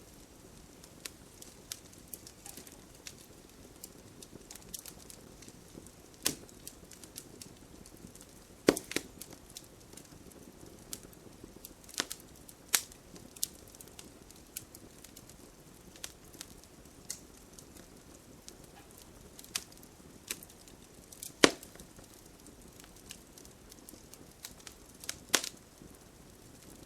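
Campfire wood burning with a soft steady hiss and scattered crackles, with a few louder sharp pops.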